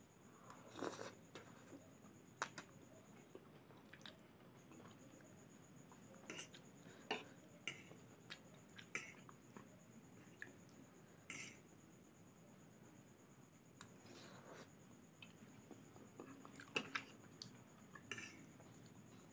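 Faint chewing of instant noodles, with scattered sharp clicks and scrapes of a metal fork against the plate as she twirls up mouthfuls.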